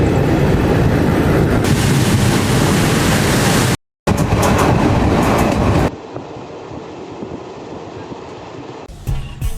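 A passenger train running on the rails, its loud, even rumble and clatter broken by a brief dead gap about four seconds in; after about six seconds the sound drops to a much quieter, more muffled stretch.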